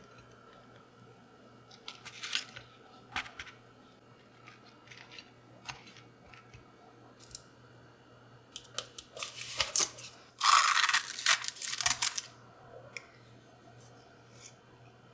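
Kitchen handling sounds: scattered light clicks and taps, then a loud crinkly rustle or tear lasting about two seconds, a little past the middle.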